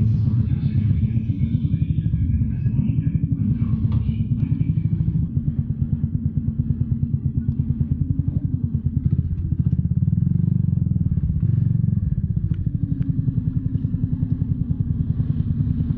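Small motorcycle engine running with a fast, even pulsing beat and the whirring, turbine-like noise that the video's owner traces to a burnt ignition coil.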